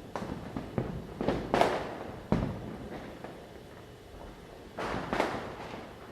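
Diwali firecrackers going off at night: a string of sharp bangs, some close and some distant, the loudest pairs about a second and a half in and near five seconds, each leaving a short echoing tail.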